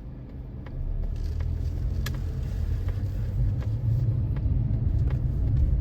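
Low, steady rumble of a car being driven, heard from inside the cabin. It grows louder about a second in, with a few faint clicks.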